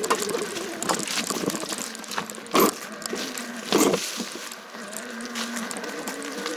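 Mountain bike rattling and clattering over a rough trail, with two loud knocks a little over a second apart as it hits bumps or roots.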